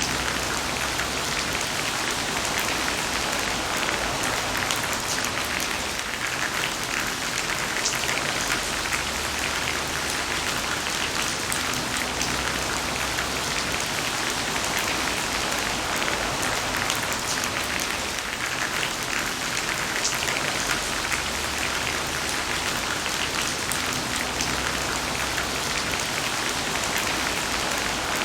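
Heavy rain falling steadily: a dense, even hiss of drops with a fine scattered patter.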